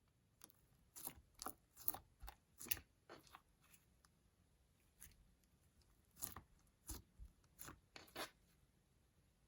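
Slime being pressed and worked by hand, giving short crackling, crunchy pops in two runs, about a second in and again about six seconds in.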